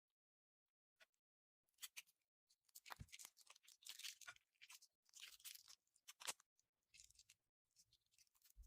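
Slime being squeezed and pressed by hand, giving off quiet crackling and crunching pops. The pops begin about two seconds in and carry on in dense clusters until they stop at the end.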